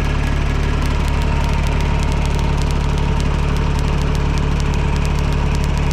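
TYM T224 subcompact tractor's diesel engine idling steadily, with a fast even clatter over a deep hum.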